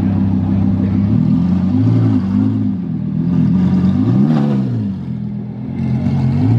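A car engine held at a steady fast idle, then revved several times, its pitch rising and falling with each blip of the throttle.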